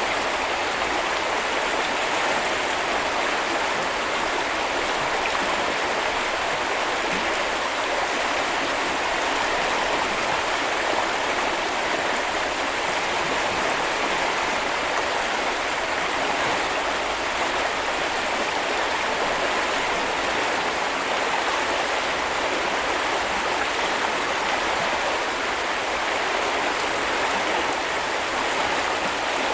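Small river or brook flowing over stones, a steady rushing and babbling of water.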